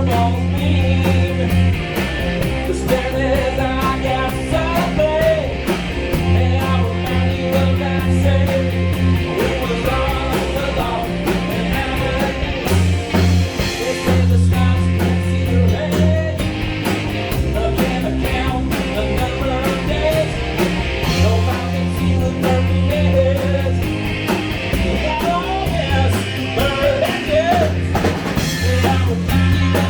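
A rock band playing live: drum kit, held bass notes and electric guitar.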